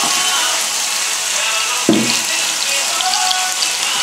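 Chicken breast and onion sizzling in hot oil in a frying pan, a steady dense hiss, with a single knock about two seconds in.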